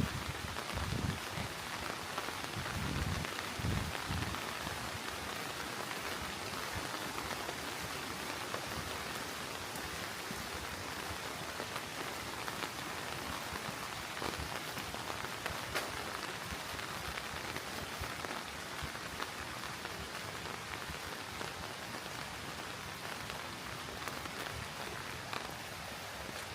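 Steady rain falling, an even hiss with scattered drop ticks. There are a few dull low bumps in the first few seconds.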